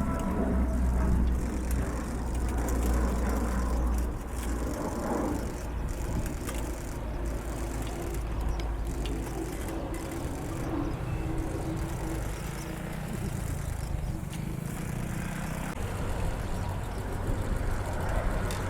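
Rolls-Royce Dart turboprop engines of a YS-11 running at a distance: a steady rumble, heaviest in the first four seconds.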